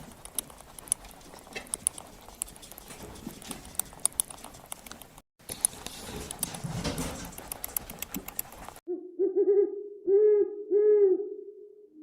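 Rustling with many scattered clicks, then, about nine seconds in, an owl hooting: a wavering call followed by two loud, clear hoots that fade out near the end.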